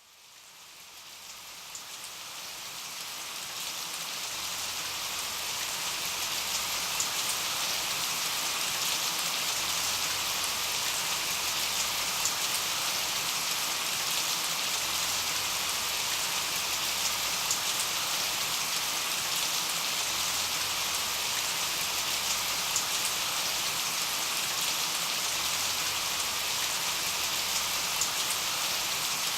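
Steady rain falling and pattering on surfaces, fading in over the first few seconds.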